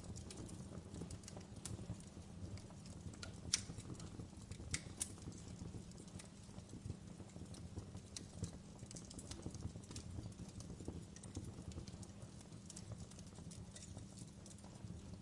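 Wood fire crackling in a fireplace: irregular sharp pops and snaps over a low steady rumble, with one louder pop about three and a half seconds in.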